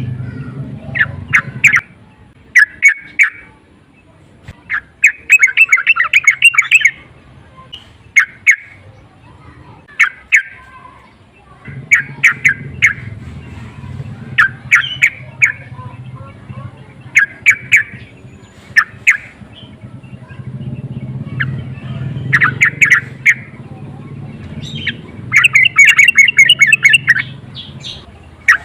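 Yellow-vented bulbul (trucukan) calling in short bursts of rapid, chattering notes, repeated every second or two, with a faint low hum underneath at times.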